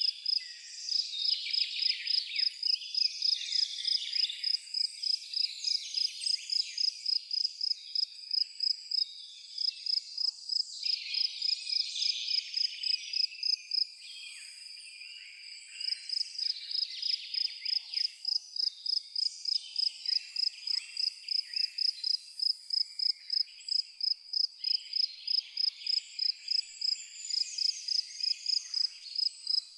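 A cricket chirping in an even rhythm, about three chirps a second, pausing for a couple of seconds near the middle, over birds chirping and twittering.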